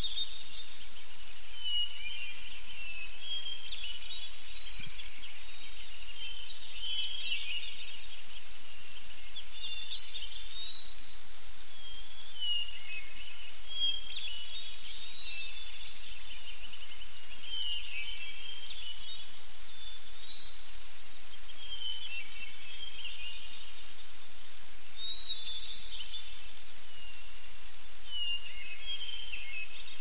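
Songbirds singing in short chirping phrases every couple of seconds, with a run of higher, louder notes between about two and seven seconds in, over a steady high hiss.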